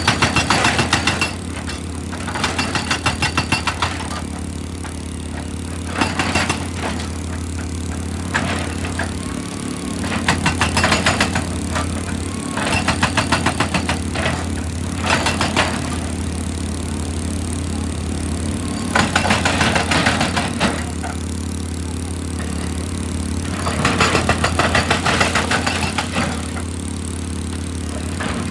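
Heavy excavator's diesel engine running steadily, with repeated bursts of rapid hammering on rock, each one to two seconds long and coming every few seconds.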